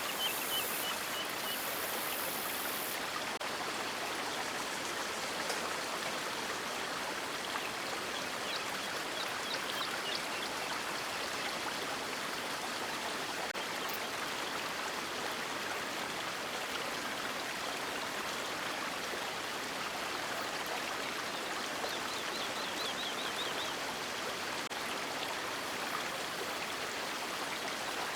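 River water rushing and splashing steadily in an even, unbroken hiss. A few faint, short, high trills sound over it once near the start, again about a third of the way in and again late on.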